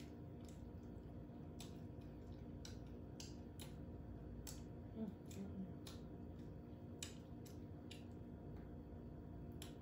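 Close-up eating sounds: chewing and lip smacking on seafood-boil shrimp, heard as scattered, irregular wet clicks over a steady low hum.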